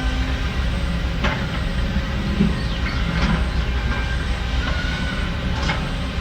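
Heavy diesel earthmoving machinery running with a steady low rumble, with a sharp metallic clank about a second in and another near the end, and faint squeaks of steel.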